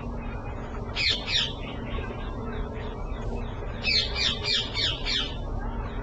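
Small songbird chirping: two quick falling chirps about a second in, then a run of about six more towards the end, over a steady low background noise.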